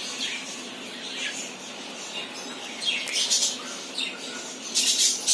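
Birds calling, a parrot and a chick: short, separate chirps that fall in pitch, then near the end a quick run of harsh, scratchy calls, the loudest part.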